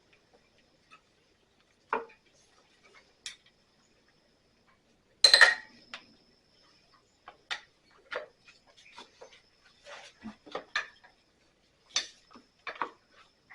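Metal hand tools and parts clinking and clattering: a single tap about two seconds in, a loud clatter about five seconds in, then a run of short clicks and taps.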